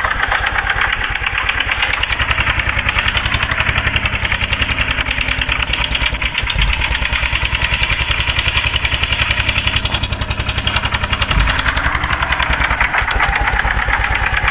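Eicher 241 tractor's single-cylinder diesel engine running with a steady, rapid chugging beat, broken by two brief low thumps, one about halfway through and one near the end.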